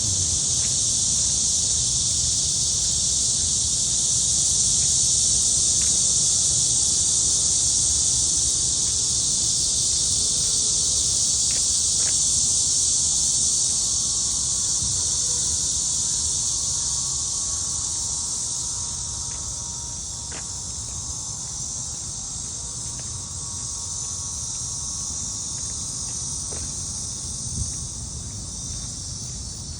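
Chorus of cicadas buzzing steadily and loudly, a continuous high-pitched drone that eases off somewhat in the second half.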